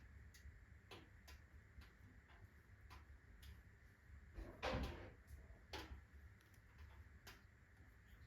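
Wood fire of alder, birch and oak crackling in a fireplace: faint, irregular sharp snaps, with one louder pop a little past halfway.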